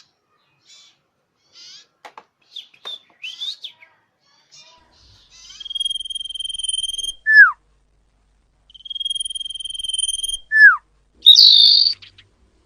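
Common iora (cipoh) calling: a few short chirps, then twice a long, steady, high whistle that ends in a quick downward note, and a loud harsh note near the end.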